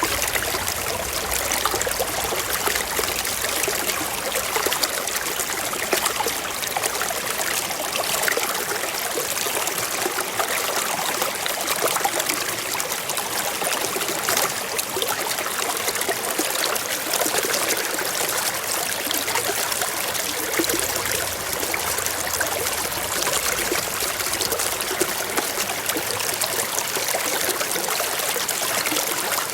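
A forest stream flowing and trickling over rocks, a steady, even rush of water with fine splashing detail.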